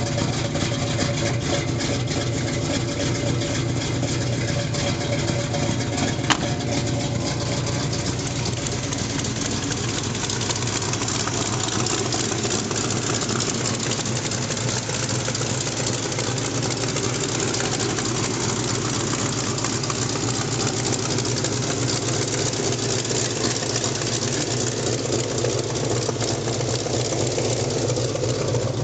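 Built 350 small-block Chevy V8 in a 1986 Chevy S10 idling steadily, with a single sharp click about six seconds in.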